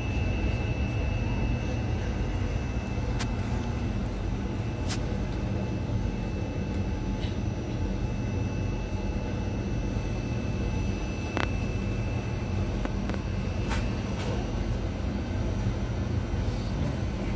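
Electric commuter train heard from inside the carriage while running: a steady low rumble with a thin high whine that fades out about eleven seconds in, and a few sharp clicks scattered through.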